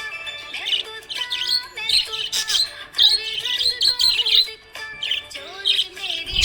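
Small pet parrots chirping and chattering in quick, dense runs, over background music with steady held notes.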